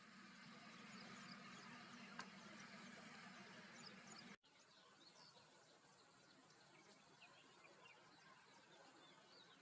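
Faint outdoor ambience with many short, high chirps of small birds, broken by an abrupt cut a little over four seconds in.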